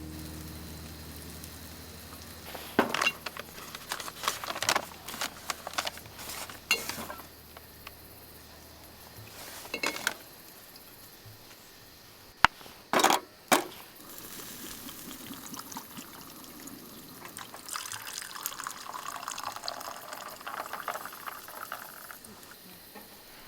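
Clinks and knocks of camp cookware being handled, then liquid pouring for a few seconds near the end.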